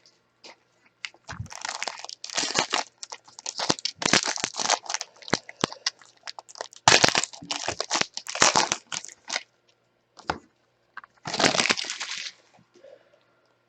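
Plastic packaging crinkling and tearing in irregular bursts as a trading card pack is handled and opened, with a longer rustle near the end.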